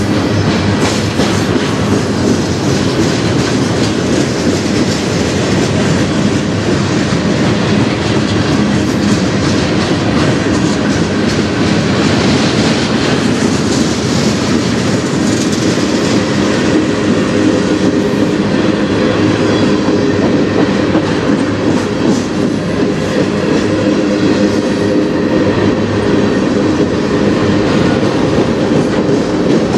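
Freight cars of a manifest train rolling past at close range: a steady, loud rumble of steel wheels on rail with the clickety-clack of wheels crossing rail joints.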